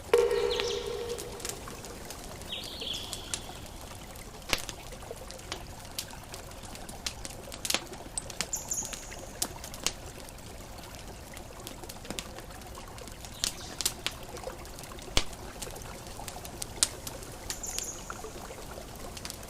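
Campfire crackling with irregular sharp snaps and pops over a steady water-like rush, with a few short high bird chirps. A ringing chime-like tone sounds at the start and fades within about a second.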